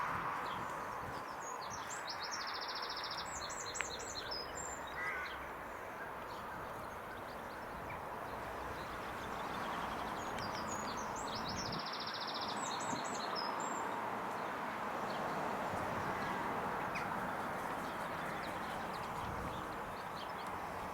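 A small songbird sings two short, high phrases with rapid trills, several seconds apart, over a steady rushing background noise.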